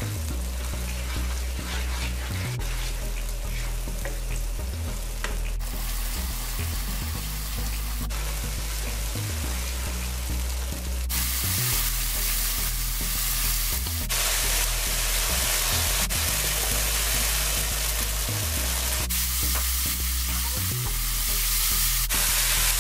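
Curry paste of ground seasoning, masala and curry leaves sizzling as it fries in a nonstick wok, with a wooden spoon stirring and scraping it round the pan. The sizzle shifts in loudness abruptly several times.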